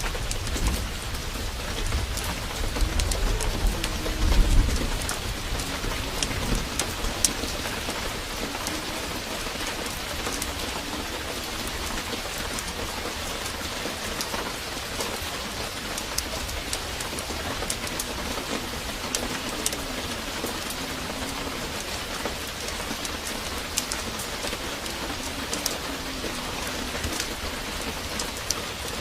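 Heavy rain pouring steadily, with scattered sharp ticks throughout. A low rumble of thunder swells in the first few seconds and fades by about six seconds in.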